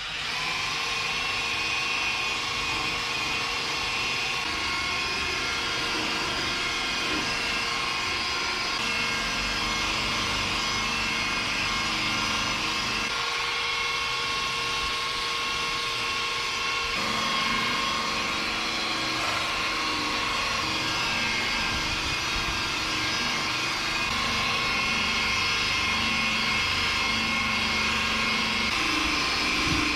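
Electric machine polisher running steadily with a constant whine, used for paint polishing.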